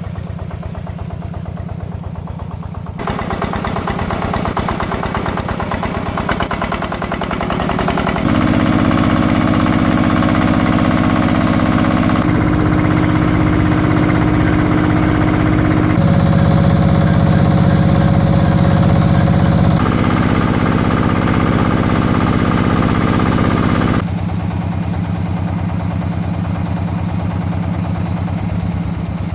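Power tiller's single-cylinder diesel engine running steadily. Its sound changes abruptly several times and is louder through the middle stretch.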